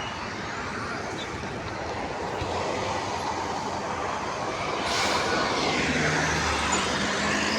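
Steady road traffic noise of moving vehicles, growing a little louder, with a sharp rushing sound about five seconds in.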